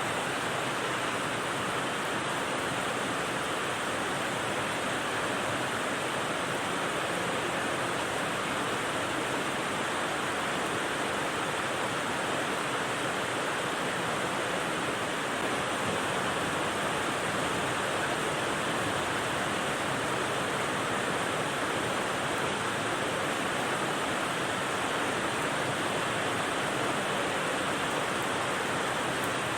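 Steady rain white noise: an even, unbroken hiss with no single drops standing out and no change in level.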